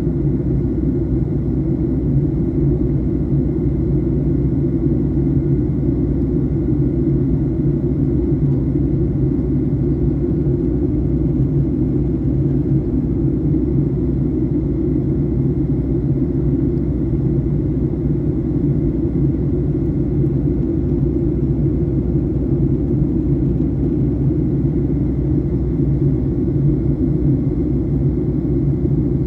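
Steady low rumble of engine and airflow noise inside the cabin of a Boeing 737-900 airliner on descent, with a faint steady high whine above it.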